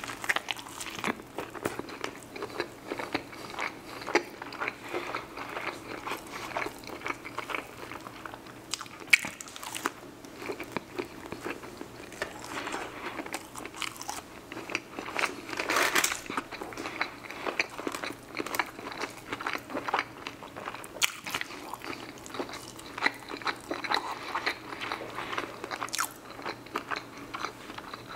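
Close-miked eating: a person biting and chewing fried chicken and sauced fries, with crunching and wet, crackly mouth sounds throughout and an especially loud crunch about sixteen seconds in.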